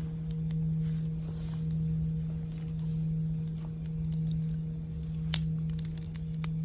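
Singing bowl ringing a steady low tone that slowly swells and fades in loudness, with campfire crackles over it and one sharp pop about five seconds in.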